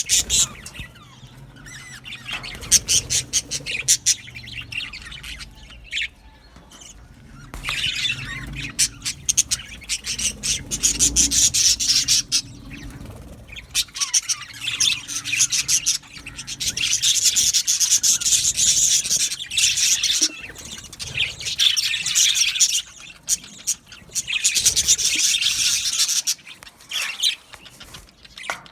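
Budgerigars chirping and chattering, many birds at once, in spells of dense high-pitched twittering with quieter gaps between.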